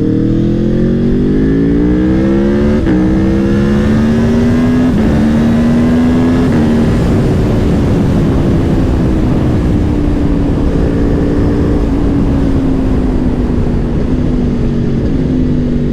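Aprilia Tuono V4 Factory's V4 engine pulling hard through the gears: the revs climb and drop with an upshift twice in the first five seconds, then hold fairly steady before slowly easing off.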